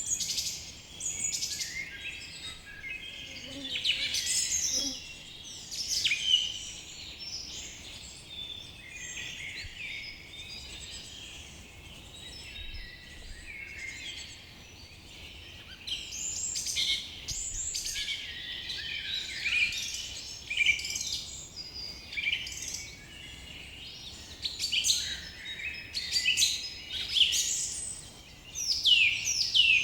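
Many songbirds singing and calling at once in a forest chorus, a dense run of chirps and whistled notes, with quick downward-sweeping notes repeating near the end.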